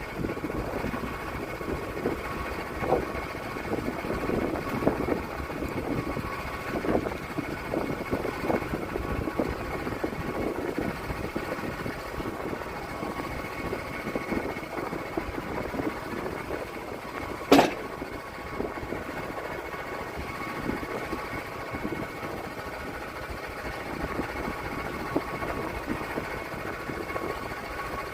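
Portable sawmill's engine running steadily, with one sharp knock about two-thirds of the way through.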